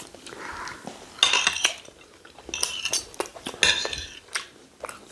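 Metal spoons scraping and clinking against plates while eating rice and stew, in a few bright clusters of clinks with small clicks between.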